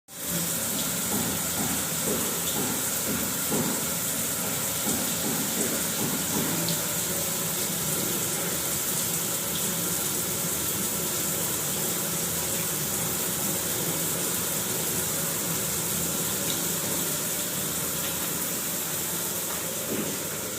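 Water running steadily with an even, hissing rush.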